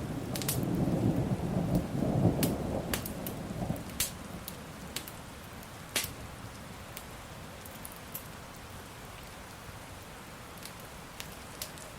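A roll of thunder rumbling for the first few seconds and fading away, over steady rain, with scattered sharp crackles and pops from a wood fire.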